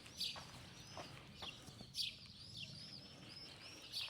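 Small birds chirping outdoors: many short, high chirps and quick falling calls, several a second, over faint background noise.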